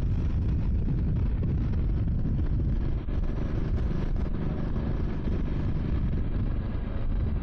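Triumph Scrambler 400 X's single-cylinder engine running steadily under way, with wind rushing over the rider's helmet microphone.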